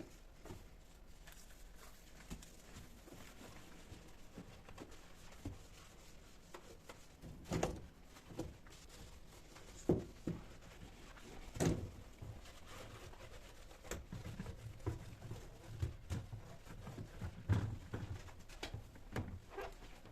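Scattered light knocks, taps and clinks of household objects being handled and set down, with a few louder knocks about 7, 10 and 12 seconds in and a busier run of soft thuds later on.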